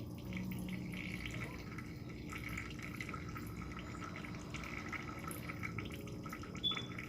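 Refrigerator's autofill water dispenser running water into a cup, a steady trickle as water is first run through a newly installed filter. A brief sharp click near the end.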